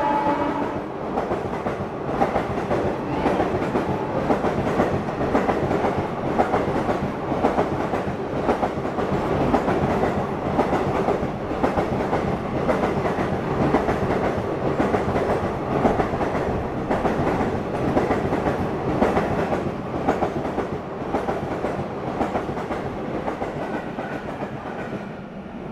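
A train's wagons rush past at speed on broad-gauge track, with the rhythmic clickety-clack of wheels over rail joints. The sound fades away near the end as the last wagons go by.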